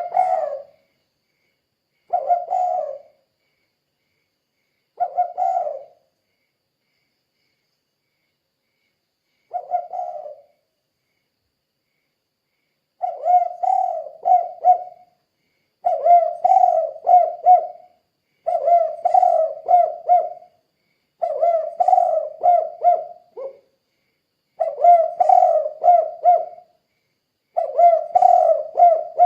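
Spotted dove (tekukur) cooing: a few short, separate coos in the first ten seconds, then longer multi-note coo phrases repeated about every three seconds from roughly halfway through. This is the 'kuk 2' song type.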